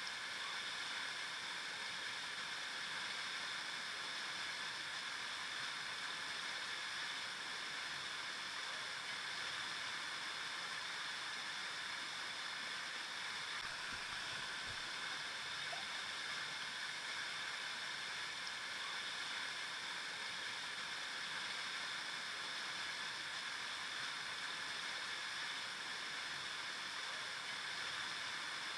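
River water flowing, a steady, even rush that does not let up.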